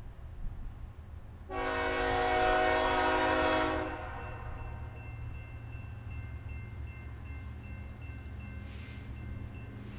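Diesel freight locomotive's air horn sounding one blast of about two seconds, a chord of several tones, over the steady low rumble of the train.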